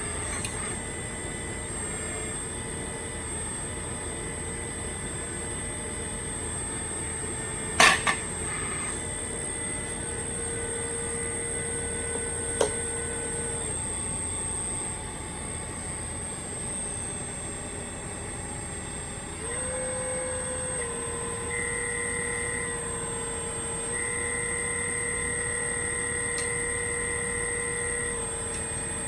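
Radio-controlled scale CAT 336D2 excavator's hydraulic drive running with a steady whine, its pitch stepping up and down several times in the second half. There are two sharp knocks about eight seconds in and a lighter one a few seconds later.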